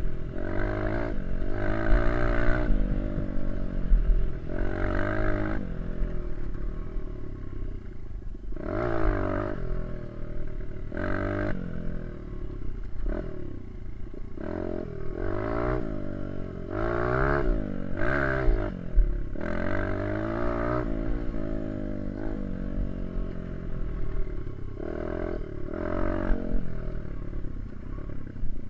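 Small dirt bike engine being ridden, revving up and easing off over and over, its pitch rising and falling every few seconds.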